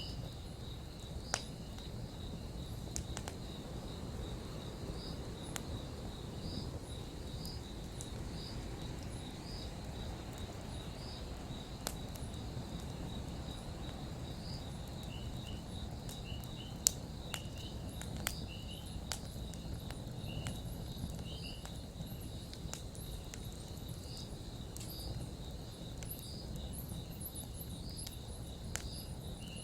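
Campfire burning with a steady low rumble and scattered sharp crackles and pops, two of them louder, about a second in and midway. Crickets chirp steadily throughout, with a high insect trill.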